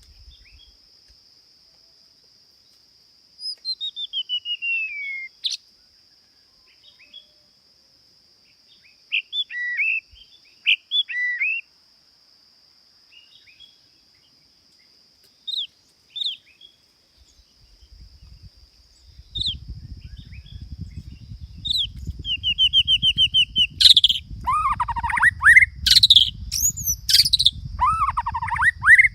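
A songbird singing in separate phrases: a falling whistle, then short chirps and whistled notes, building near the end into a fast, varied run of song. A steady high tone sounds underneath throughout, and a low rumble joins about two-thirds of the way in.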